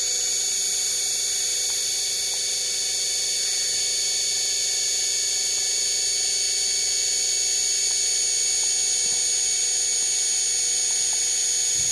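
Washing machine motor running on a DC power supply, spinning steadily at its high-speed setting of around 4,000 rpm, a steady high-pitched whine with several fixed tones that holds even throughout.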